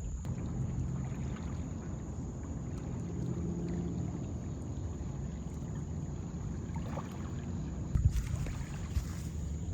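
A boat motor on the river running with a steady low drone, with a couple of short thumps near the end.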